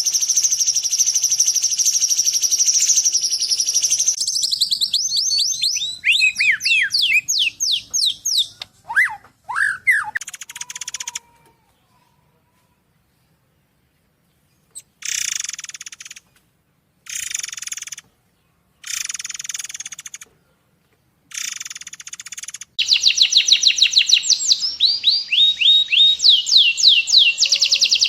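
Songbird masteran song: a high, steady trill, then rapid down-sweeping notes and a few lower whistles. After a pause of a few seconds come short bursts of trilling and a long run of fast, repeated sweeping notes.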